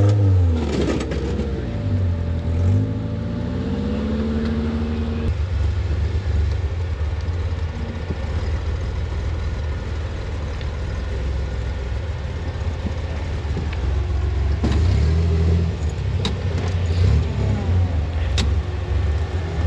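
Rock-crawling rig's engine revving up and down in the first few seconds, then running steadily under load while crawling, with a few sharp knocks near the end.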